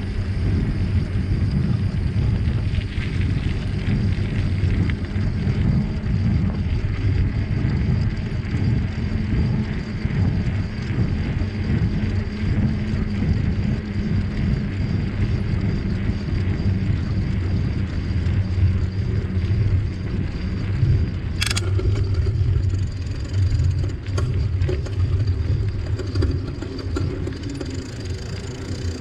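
Steady low rumble of riding a bicycle: wind buffeting the microphone and tyres rolling over the trail. A single sharp click comes about twenty-one seconds in.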